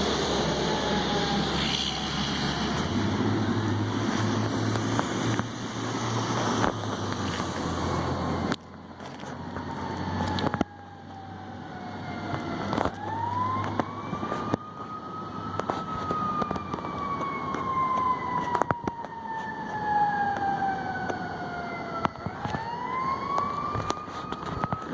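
Fire truck siren with the truck's heavy engine running close by for the first several seconds. Later the siren winds up twice, about 13 s and 22 s in, each time rising quickly and then falling away slowly.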